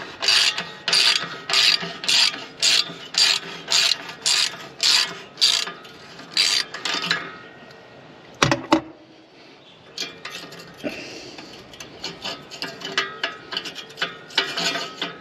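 A ratchet wrench clicking in steady strokes, about two a second, as the clamp bolt on a tractor's exhaust stack is turned. A single sharp knock comes about eight seconds in, followed by lighter, quicker ratchet clicks.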